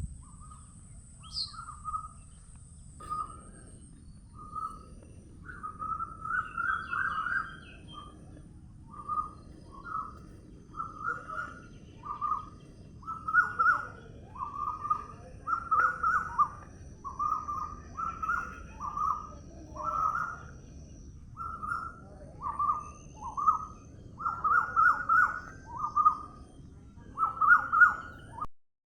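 A bird calling over and over: short, rough notes roughly one a second, coming thicker and louder in the second half. A faint steady high tone runs behind them, and everything cuts off suddenly just before the end.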